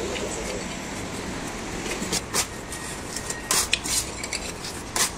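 Scraping and several sharp clinks of metal tools against stone and mortar during stone laying.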